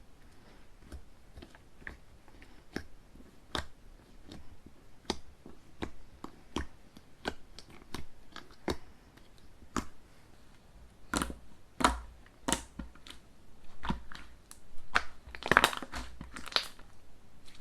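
Slime being squeezed and mixed by hand, giving a string of sharp wet clicks and pops about one a second, with denser, louder clusters of pops toward the middle and near the end.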